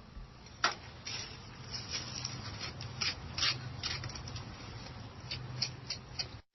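Faint, irregular clicks and taps, the loudest under a second in, over a low steady hum.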